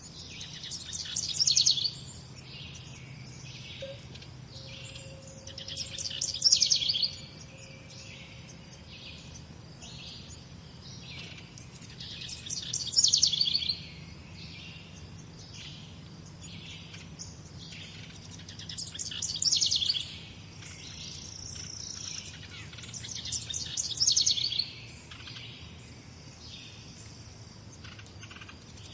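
Morning birdsong: one bird repeats a loud, rapid trilled phrase five times, about every five to six seconds, while softer chirps from other birds fill the gaps.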